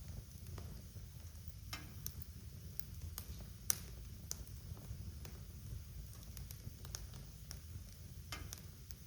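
Wood fire crackling in a fireplace: scattered sharp pops and snaps over a low, steady rumble of the flames, with one louder pop a little before the middle.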